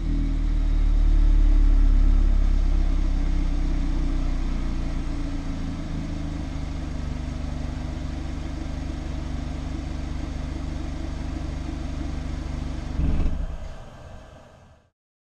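Mazda MX-5 ND's four-cylinder engine through a RoadsterSport Race exhaust, settling after a rev into a steady idle. The note swells briefly near the end, then fades out.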